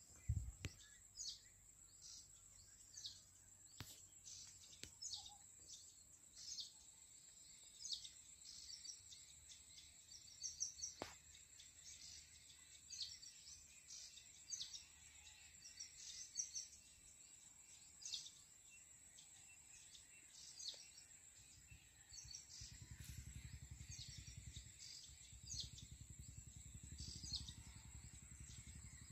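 Faint riverside ambience: short bird chirps repeating every second or so over a steady high-pitched whine. A low rumble comes in over the last several seconds.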